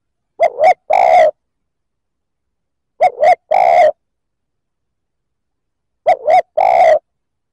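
Spotted dove cooing: three phrases about three seconds apart, each two short coos followed by a longer one.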